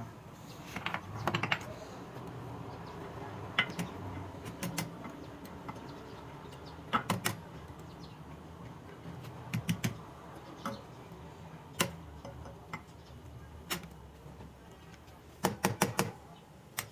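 Irregular small metal clicks and light knocks of tools and turbocharger parts being handled at the bench, with a quick cluster of clicks near the end.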